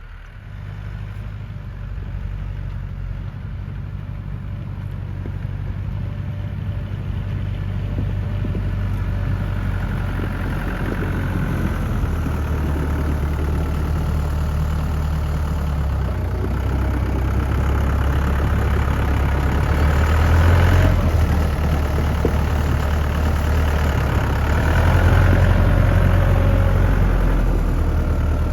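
Lovol tractor's diesel engine running, getting steadily louder, with a few shifts in its engine note.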